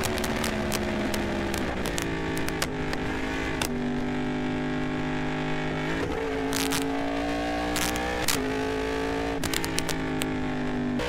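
Yamaha R1M crossplane inline-four engine running under way. Its note holds fairly steady, then jumps to a new pitch every couple of seconds, with a few short sharp pops.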